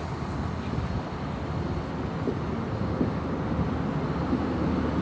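InterCity 125 High Speed Train pulling away, its Class 43 diesel power cars running as a steady low rumble that grows a little louder toward the end.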